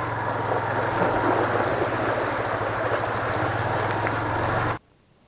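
Motorcycle engine running steadily under a constant rushing noise, as the bike rides through a shallow water crossing; the sound cuts off abruptly near the end.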